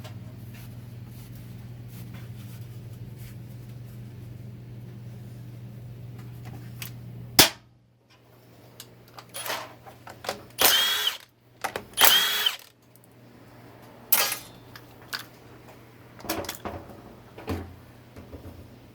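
A power tool run in two short bursts of about a second each, amid clicks and knocks of parts being handled. Before that, a steady low hum cuts off with a sharp click.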